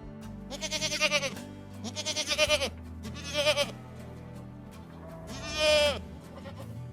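An animal bleating four times in high, wavering calls, the last the longest, over steady background music.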